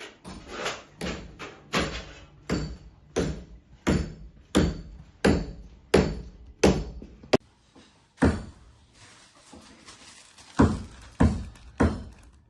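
Hammering: about ten even blows, roughly one and a half a second, then a short pause and a few more blows near the end.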